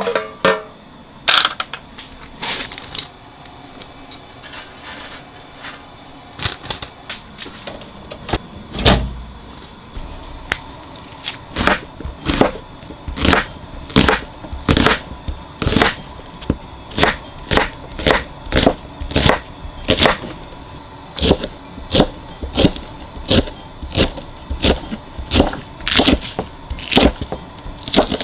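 Knife chopping on a cutting board: a few scattered knocks and a low thump at first, then a steady run of about two chops a second from about a third of the way in.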